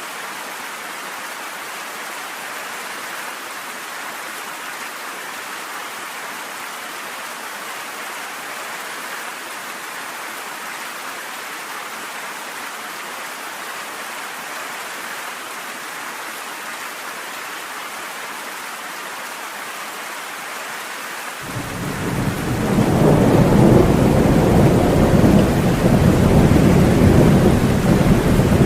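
Steady rain falling, an even hiss. About three-quarters of the way in, a loud low rumble of thunder comes in suddenly, swells and keeps rolling to the end.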